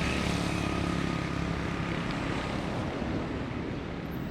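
A steady low engine-like drone that slowly fades.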